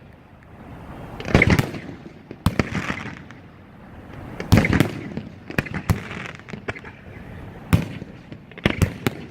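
Aerial fireworks finale: shells bursting in a series of sharp bangs every second or two, each followed by a rolling rumble, with a quick run of three bangs near the end.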